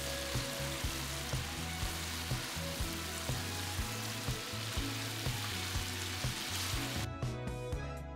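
Chopped spiny lobster meat sizzling in butter and olive oil in a frying pan, with background music under it. The sizzle cuts off about seven seconds in, leaving only the music.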